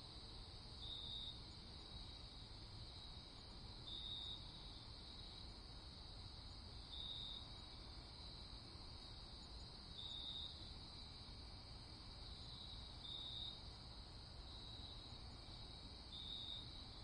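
Crickets chirping in a steady high chorus, with one louder short chirp repeating about every three seconds.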